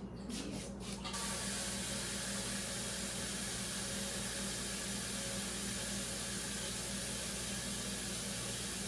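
A few light clicks, then from about a second in a kitchen tap running steadily, water filling a vessel for tea.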